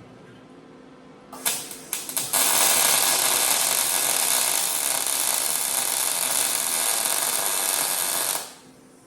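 Welding arc on sheet steel for a homemade muffler: a few short starts and stops about a second and a half in, then a steady hissing bead for about six seconds that cuts off suddenly.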